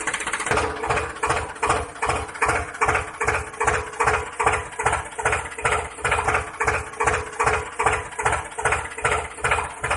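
Engine idling with a slow, even chug of about three beats a second over a steady hum.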